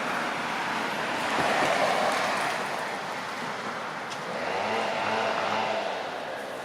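Road vehicles passing by: a steady traffic rush that swells twice, about two seconds in and again about five seconds in, the second with a faint engine note bending in pitch as it goes past.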